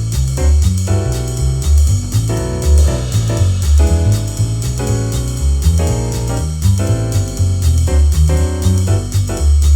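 Up-tempo jazz backing track at 240 bpm, with no melody: a bass line on every beat under piano chord comping, with a steady cymbal wash on top.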